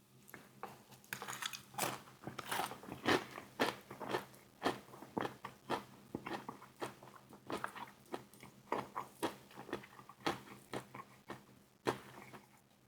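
Close-up eating sounds: a crispy KFC fried chicken wing being bitten and chewed, with sharp, irregular crunches of the fried coating several times a second. The crunching thins out near the end.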